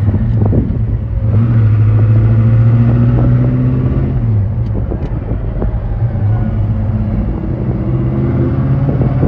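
Car engine running while driving a manual-transmission car, swelling for a few seconds just after the start and then easing off, with a faint tone that rises slowly in pitch near the end.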